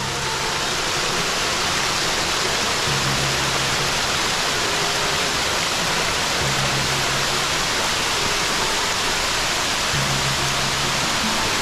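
Steady, loud roar of a waterfall, with background music underneath carrying low bass notes that return every few seconds.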